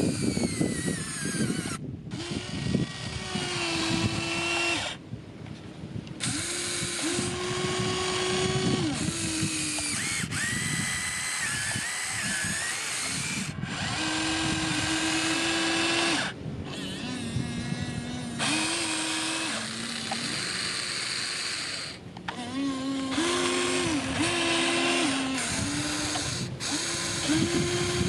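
A machine's motor running steadily, its pitch stepping up and down between two levels, with abrupt changes in the sound every few seconds.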